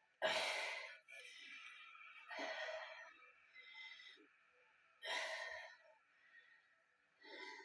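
A person breathing hard from exertion: four heavy, breathy exhales about every two and a half seconds.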